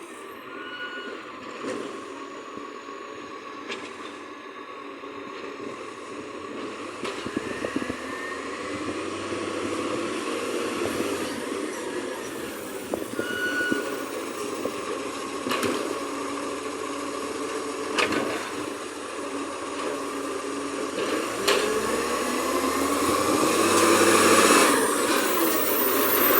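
Garbage truck's diesel engine running and growing louder toward the end, with a few sharp knocks and some rising pitch as it revs.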